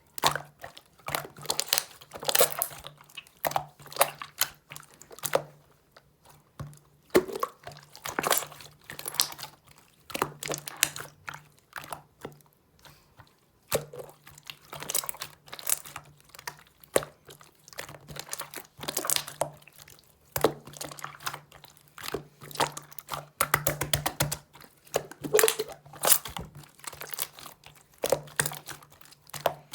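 Slime being squeezed and kneaded by hand, giving clusters of irregular sticky clicks and pops.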